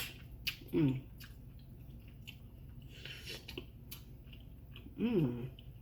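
Close-miked eating of seafood boil in butter sauce: wet chewing, squishing and lip-smacking clicks, with a sharp click at the start. Two short hummed "mm" sounds of enjoyment come about a second in and near the end.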